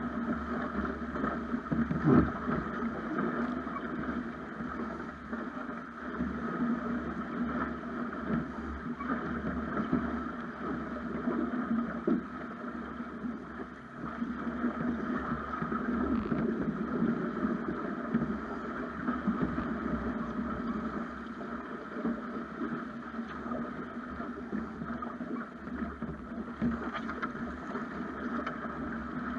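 Snipe sailing dinghy under way: water rushing along the hull, with wind buffeting the action camera's microphone. There is a single knock about two seconds in.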